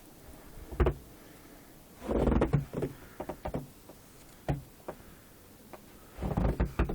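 Scattered knocks and clicks, with a short burst of rustling, scraping noise about two seconds in and another near the end.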